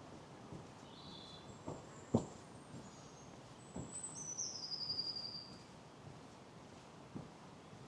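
Small songbirds calling and singing in high, thin notes, with one falling, rattling trill of about a second and a half near the middle. A few soft footsteps sound on the path.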